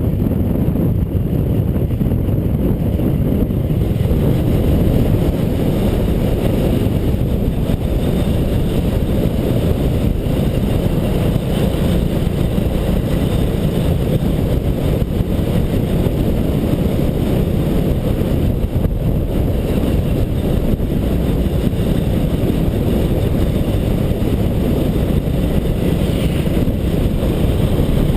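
Motorcycle riding along: engine noise mixed with wind buffeting the microphone, a steady low rumble that holds unchanged throughout.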